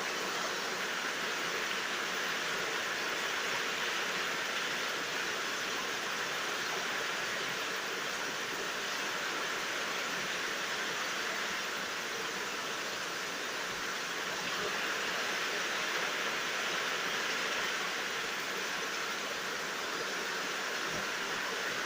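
Steady rain falling at night: an even, unbroken hiss of rain, with no thunder.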